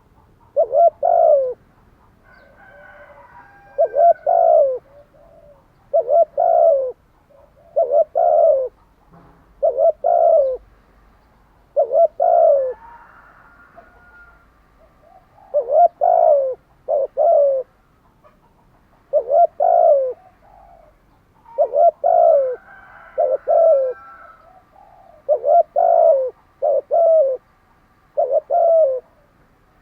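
Spotted dove cooing: short, low hooting notes in pairs and small groups, repeated every two to three seconds. Fainter, higher chirps of small birds come in between the phrases.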